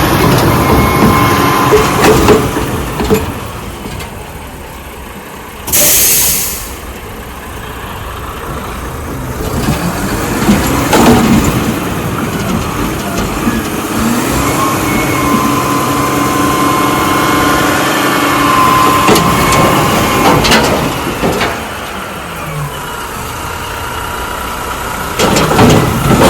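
Garbage truck engine running steadily, with a loud burst of air hiss lasting about a second around six seconds in and several sharp knocks and clanks through the rest.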